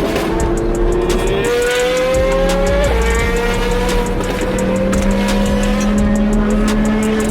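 Sports car engine accelerating, its pitch climbing steadily, with a sudden drop about three seconds in like an upshift, then climbing again. Background music with a steady beat plays alongside.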